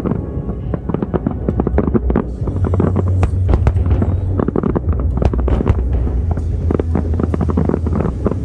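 Aerial fireworks bursting in rapid succession: many sharp bangs and crackles close together over a steady low rumble.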